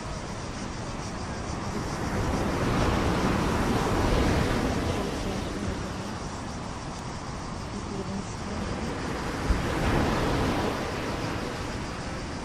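Sea waves washing in, swelling twice, with wind buffeting the microphone. A brief thump about nine and a half seconds in.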